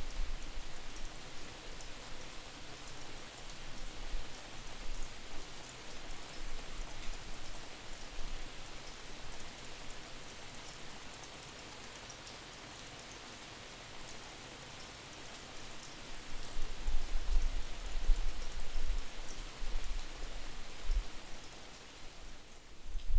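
Steady rain falling, with gusts of wind buffeting the microphone as a distorted low rumble, strongest near the start and again in the last third.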